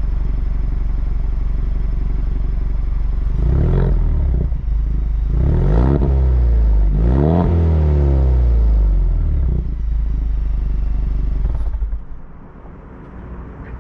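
2024 Ford Mustang EcoBoost's turbocharged 2.3-litre four-cylinder idling through its active exhaust, revved three times with the pitch rising and falling, then settling back to idle. The sound drops sharply near the end.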